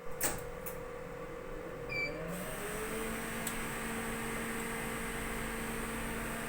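A click near the start and a short electronic beep about two seconds in; after the beep a steady electrical or machine hum with a constant low tone sets in and continues.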